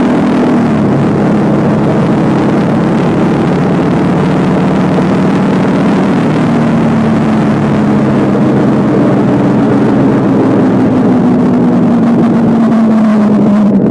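Motorcycle engine running under way, heard from on board with wind noise over it. The engine note drops about half a second in, then holds steady.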